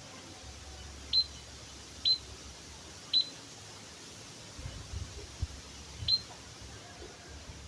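White-headed munia (emprit kaji) giving short, high single call notes, each a quick downward flick: three about a second apart, then a fourth after a pause of about three seconds. A low rumble and a single click come in the pause.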